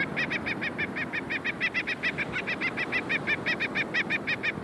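A male gull calling during copulation: a fast, even series of short, harsh notes, about six a second, kept up without a break.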